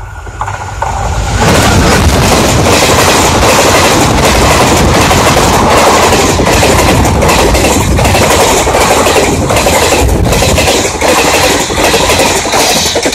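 Konkan Kanya Express passenger train passing at close range. The noise swells as the locomotive arrives, about a second and a half in. The coaches then run past loudly, their wheels clattering on the rails in a quick run of clicks.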